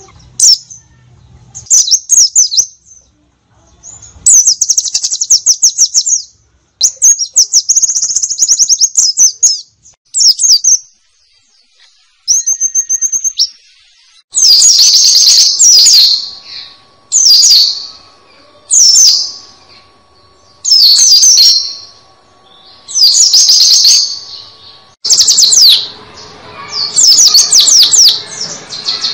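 White-eye (pleci) singing its rapid, high-pitched 'nembak' song in short bursts. From about halfway, phrases of about a second come every couple of seconds.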